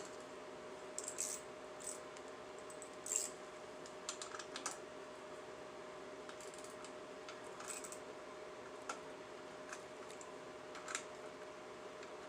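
Scattered light clicks and taps of hand wrenches against metal parts of a motorcycle, over a faint steady hum.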